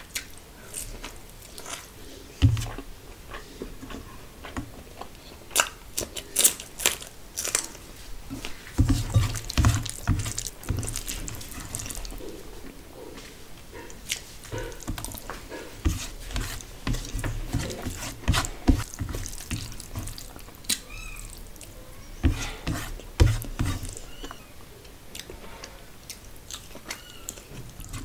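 Close-up mouth sounds of a person eating rice and curry by hand: wet chewing and lip smacks, with many short, sticky clicks.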